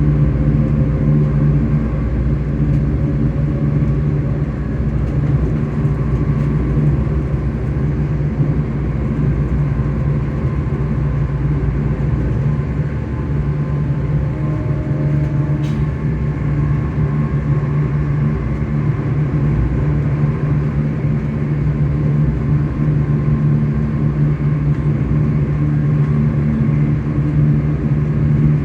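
ScotRail Class 385 electric multiple unit's traction motors humming steadily over the low rumble of the train running on the rails.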